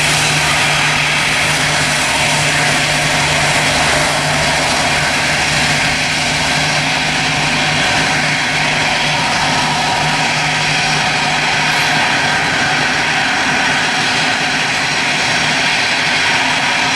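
Airbus A320 jet engines running at high power: a loud, steady rush of noise with a low hum underneath that drops out about halfway through.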